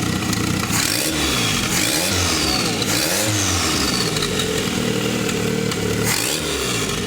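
Turbocharged Tofaş Doğan four-cylinder engine, converted to a carburettor, running and revved in short throttle blips, the revs rising and falling back about four times. It is running rich, sending a lot of fuel.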